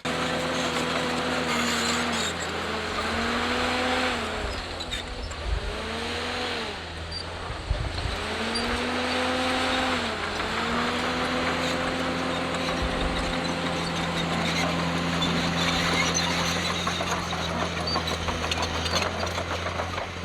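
Komatsu D51PX bulldozer's diesel engine working under load, its pitch sagging and recovering about four times in the first half as it lugs and picks back up, then running steadier.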